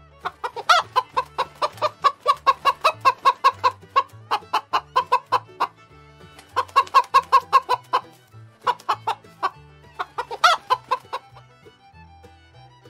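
Chicken clucking in fast runs of short, evenly repeated calls, about four or five a second, broken by brief pauses, with a louder, higher squawk near the start and another about ten seconds in.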